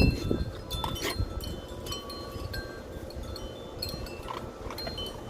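Wind chime ringing: scattered high metallic tones struck one after another, each ringing briefly.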